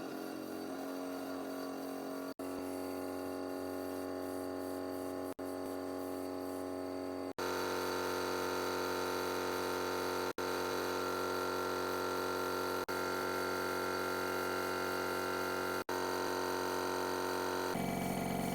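Steady machine hum with many even tones, cut into short stretches of a few seconds each by brief gaps. It gets louder and brighter about seven seconds in.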